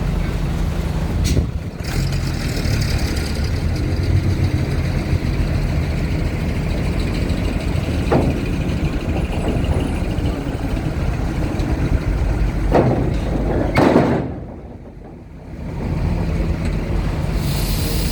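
Heavy trucks running with a steady low diesel rumble, with several short air-brake hisses along the way.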